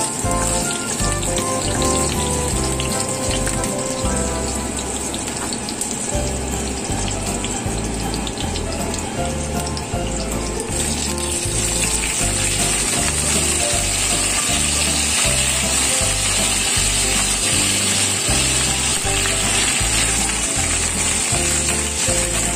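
Hot oil sizzling in a wok. The frying hiss grows stronger about eleven seconds in, when already-fried chicken wings go into the oil with the garlic and ginger. Background music with a steady beat plays throughout.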